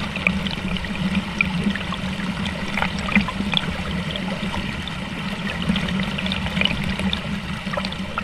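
Shallow river water running and splashing over rocks: a steady rush with many small splashes scattered through it.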